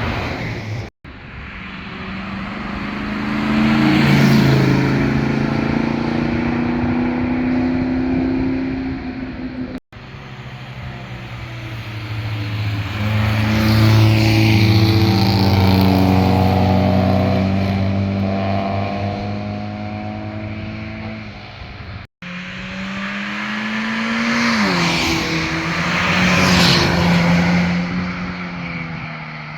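Sports cars driving past one after another, each engine and exhaust note swelling as it nears and fading as it goes, the pitch rising and dropping as they accelerate and change gear. The sound cuts off abruptly three times where one pass gives way to the next.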